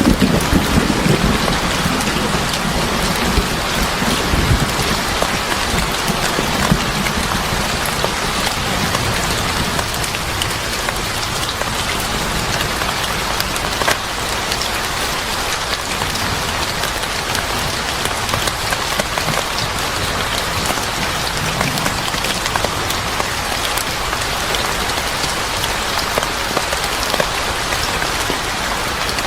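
Steady rain falling, with scattered sharp drop ticks; a low thunder rumble dies away in the first couple of seconds.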